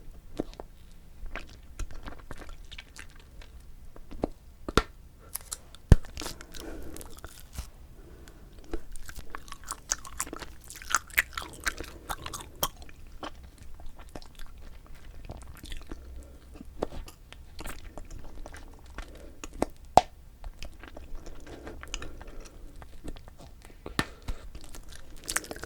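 Bubble gum being chewed: a continuous sticky, wet smacking and clicking, with a few sharp snaps standing out, the loudest about six seconds in and another about twenty seconds in.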